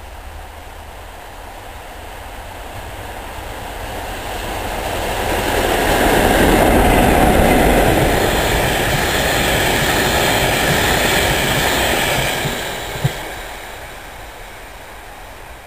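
Class 47 diesel locomotive with its Sulzer V12 engine approaching and passing at speed, growing louder, then a long rake of ballast wagons rolling past on the rails and fading away. One sharp knock comes near the end of the wagons.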